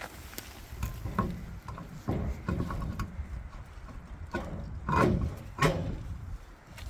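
Trailer wheel being worked back onto its hub: irregular knocks and clanks over a low rumble, a few with a short metallic ring, the loudest pair about five seconds in.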